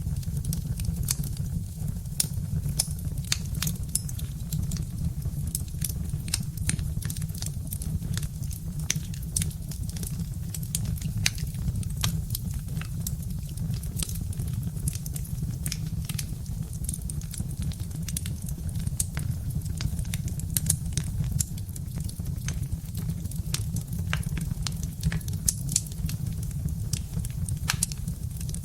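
Birch-wood fire crackling, with frequent irregular sharp pops and snaps over a steady low rumble.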